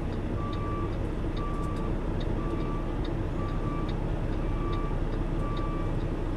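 Semi truck's reverse backup alarm beeping steadily about once a second, each beep about half a second long, over the low running of the diesel engine while the rig backs up.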